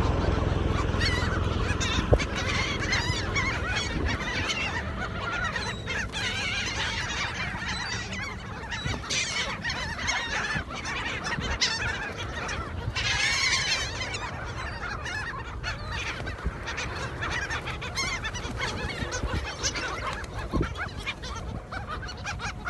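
A flock of birds calling over and over, many short honking calls overlapping, over a steady low rumble.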